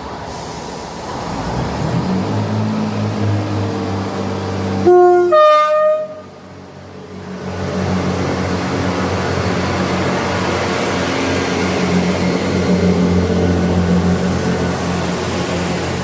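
Train horn sounding two short notes in quick succession, the second higher, about five seconds in, over the steady low running hum of the train, which carries on after the horn.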